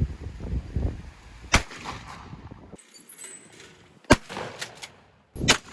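Shotgun shots at clay targets: three sharp reports, about a second and a half in, about four seconds in, and near the end, with a few fainter cracks after the second one, over low rumbling background noise.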